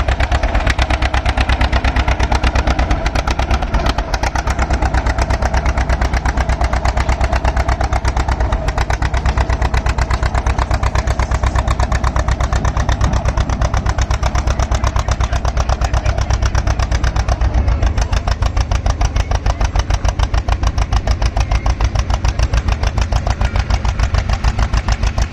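John Deere D's two-cylinder engine working hard under load as the tractor pulls the weight sled, its exhaust beating in a steady, even rhythm.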